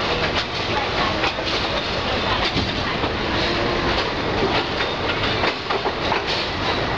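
Passenger train carriage running at speed, its wheels clacking over the rail joints at uneven intervals under a steady rushing noise, heard at an open carriage window.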